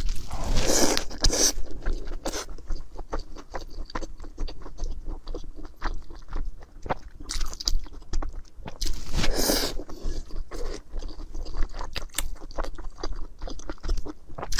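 Close-miked eating: a person chewing noodles and rice, with many small wet clicks and smacks. Two longer noisy bursts come about a second in and again around nine seconds.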